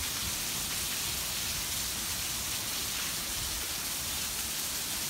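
Torrential rain pouring down, a steady, even hiss with no letup.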